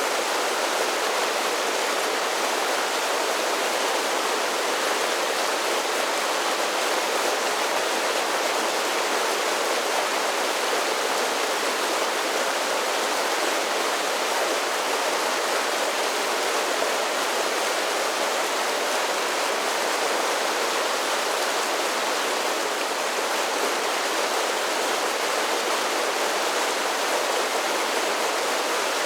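Mountain creek rushing over a series of small falls, a steady full rush of falling water.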